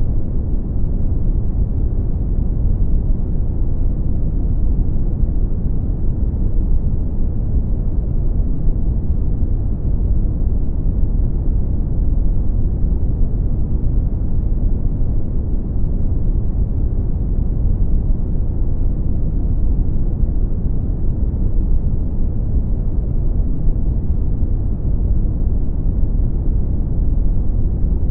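Brown noise: a steady, deep rumbling hiss with most of its energy in the low end and almost nothing in the highs, unchanging throughout.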